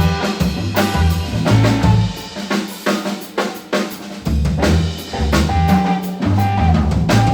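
Live blues band playing, with the drum kit up front: snare, rimshot and bass-drum hits and fills over a held bass line.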